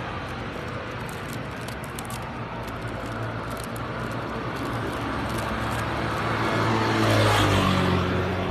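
Motor vehicle running and growing louder, passing close about seven seconds in, its pitch dropping as it goes by.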